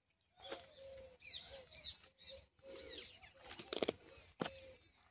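Birds calling: a run of short, low repeated notes with quick high chirps over them. A few sharp clicks cut in, the loudest about four seconds in.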